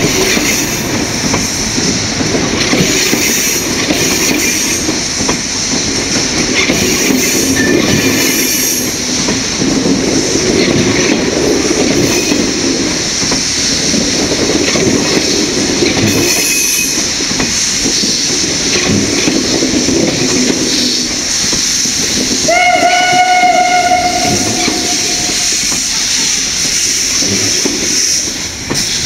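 Steam locomotive 109.109 and its special train running on the rails with a steady rumble and clatter. About three-quarters of the way through, a single whistle blast sounds, held steady for about two and a half seconds.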